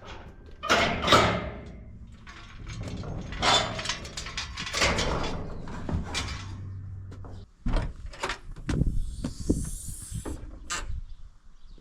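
Wooden furniture being handled: several scraping slides, then a run of sharp knocks, with a brief hiss about nine seconds in.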